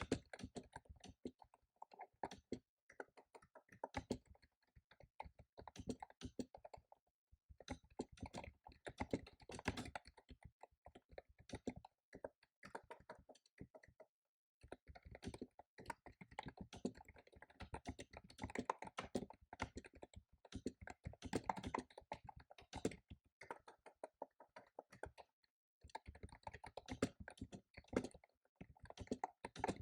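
Computer keyboard being typed on fast, in dense runs of keystrokes broken by brief pauses three times.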